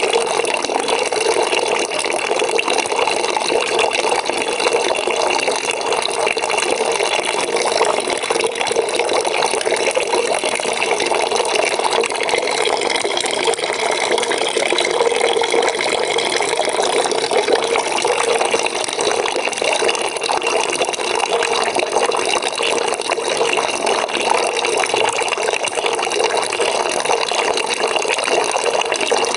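Water pouring steadily into a bucket, a constant splashing fill.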